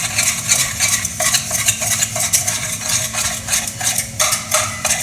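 A metal spoon whisking sugar with a little of the first strong moka-pot coffee, scraping and clinking quickly against the container at about three strokes a second, beating it into a thick, creamy sugar crema.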